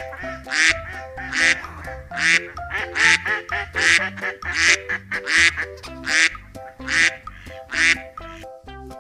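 Duck quacking about ten times, a little more than one quack a second, over light background music; the quacks stop near the end.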